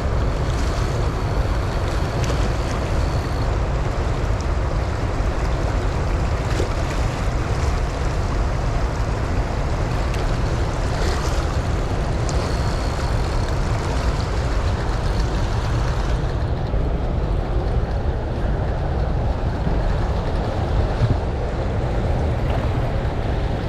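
Steady, loud rushing roar of water released through dam flood gates, heavy in deep rumble.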